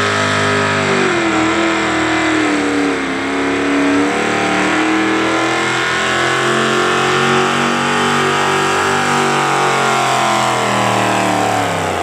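Pulling tractor's engine running at full throttle down the track. Its pitch dips about one and three seconds in, climbs again through the middle, then falls away near the end as the tractor is brought to a stop.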